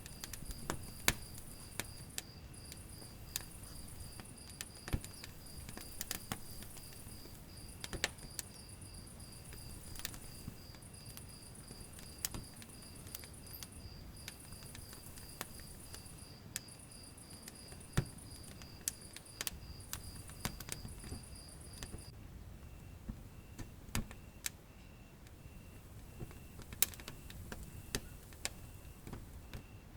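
Wood fire burning in a fireplace, crackling with frequent sharp pops over a low rumble of flame. A steady high-pitched chirping runs behind it and stops about two-thirds of the way through, leaving a fainter, slower chirp.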